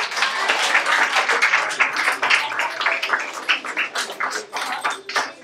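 A group clapping in applause, thinning out to a few scattered claps near the end.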